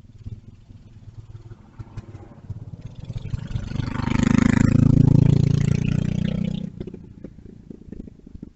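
Small mini bike engine passing by: it grows louder over a few seconds, runs loudest for about two seconds, then drops away sharply near the end.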